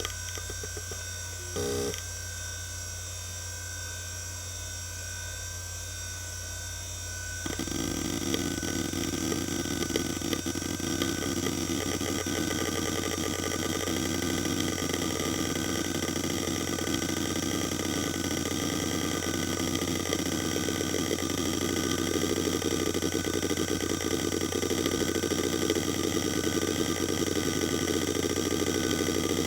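A 1998 Quantum Fireball EX 3.2 GB IDE hard drive running, its spindle giving a steady whine and hum. About two seconds in there is a short burst of head noise. From about seven and a half seconds the heads chatter continuously as the drive seeks, a rattling sound that grows slightly louder.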